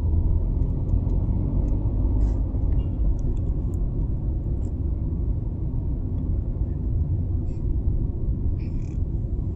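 Steady low road rumble heard from inside a moving vehicle, the engine and tyres drumming on the road, with a few faint light ticks.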